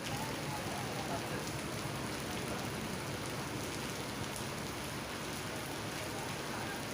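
Heavy rain pouring down in a steady, dense hiss, with scattered drop ticks.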